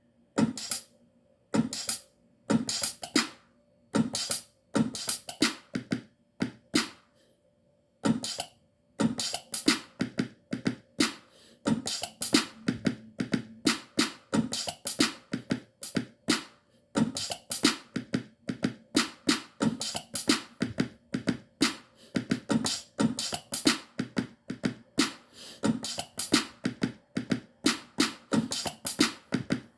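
Drum beat from an MPC One sampler: a few spaced single hits, then from about eight seconds in a steady, busy drum pattern.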